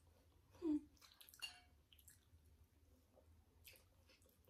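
Faint wet chewing and mouth sounds of sushi being eaten, a few soft, short smacks and clicks against a near-silent room.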